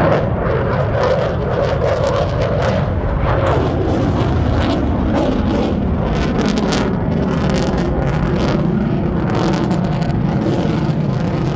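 Lockheed Martin F-22 Raptor's twin Pratt & Whitney F119 turbofan engines: loud jet noise with a ragged crackle, its pitch sinking slowly over the first several seconds.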